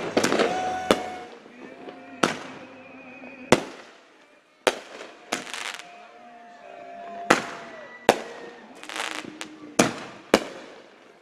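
Aerial fireworks exploding overhead: a quick cluster of sharp bangs at the start, then single bangs every second or so, some trailed by a short hissing crackle.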